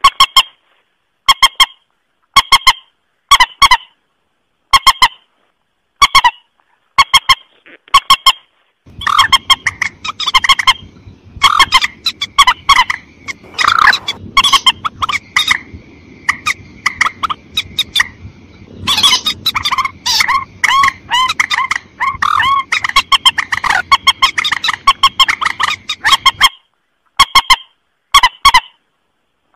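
A lure recording of mandar (rail-family waterbird) calls: short calls in groups of two or three, separated by brief silences. From about a third of the way in, a denser run of overlapping calls over a background hiss takes over, with one held note near the middle. Near the end it returns to spaced calls.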